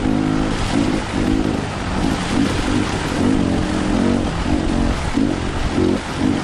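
Enduro dirt bike engine revving in repeated short surges as the throttle is opened and closed, over a constant rushing noise.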